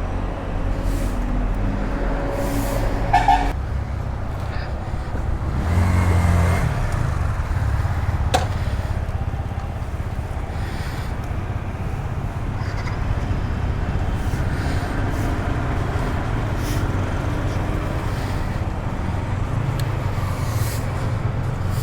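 Yamaha R15 V3's single-cylinder engine running as the motorcycle is ridden, its note shifting with throttle, with a louder surge about six seconds in.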